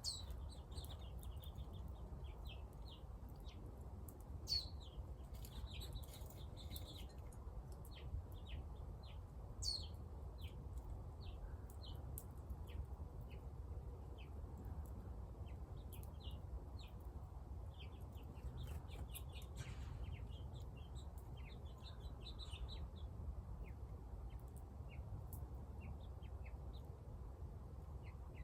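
Small birds chirping and calling, with many short chirps and three clear downward-sweeping whistles near the start, about four seconds in and about ten seconds in, over a steady low rumble.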